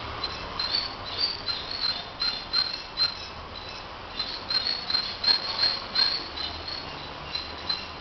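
A small bird gives short, high chirps, several a second in irregular runs, thickest in the second half.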